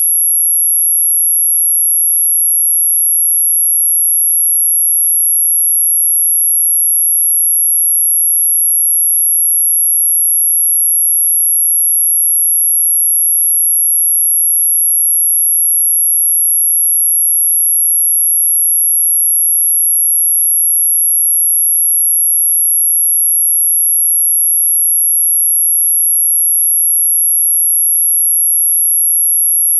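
Steady, high-pitched pure tone held without a break: an electronic anti-mosquito repellent tone.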